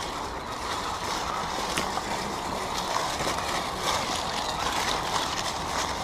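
Radio-controlled crawler trucks driving, their electric motors and geared drivetrains whirring steadily, with a few sharp clicks.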